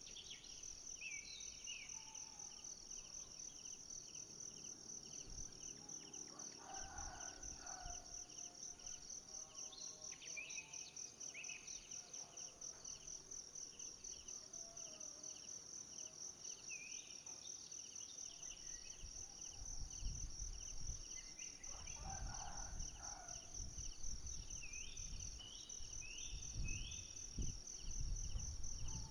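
Steady high-pitched chorus of insects, pulsing rapidly without a break, with short rising bird chirps scattered over it. Low rumbling noise comes in during the second half.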